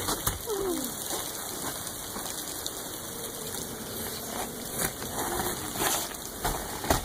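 Hail falling: a steady hiss of many small ice pellets striking the ground and nearby surfaces, with sharper individual ticks scattered throughout.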